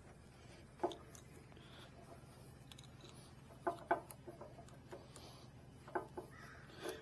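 A few faint metallic clicks and taps from a key being handled and tried in the motorcycle's ignition lock, over a low steady hum.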